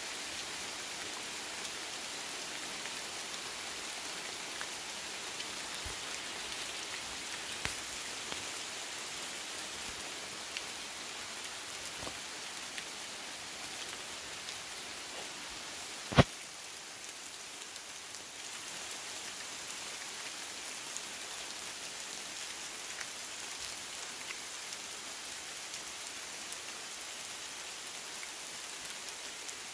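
Steady rainfall in woodland: an even hiss of rain with scattered individual drops ticking close by. One sharp, loud tap about halfway through stands out above the rain.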